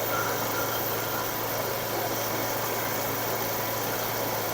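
Water-well drilling rig's engine running steadily with a constant low hum and no change in pitch.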